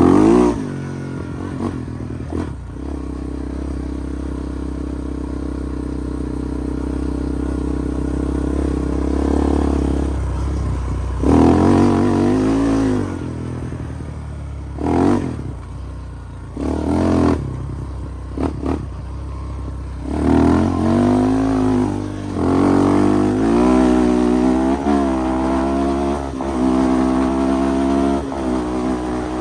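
Single-cylinder off-road engine running steadily, then revved up and down repeatedly with throttle blips and wavering pitch as the machine rides.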